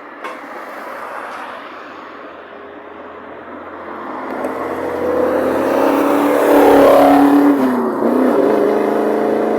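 Sports car engine accelerating, growing louder over several seconds as its pitch climbs. Its pitch drops briefly just after the loudest point, then it runs on loud and steady.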